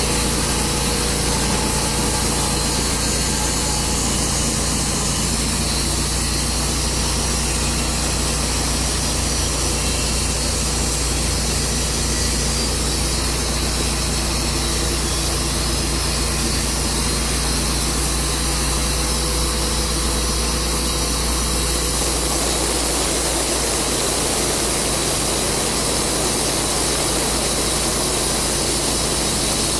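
Engine-driven Tru-Cut band sawmill running, a loud steady drone of engine and saw. The sound changes about two-thirds of the way through.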